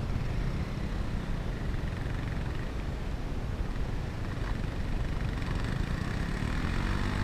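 Motorcycle engine running over rough noise, revving up with a rising pitch about six seconds in.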